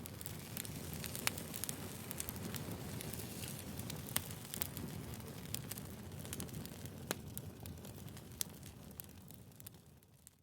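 Wood fire crackling, with scattered sharp pops and snaps over a steady low rumble of burning logs, fading out in the last second or so.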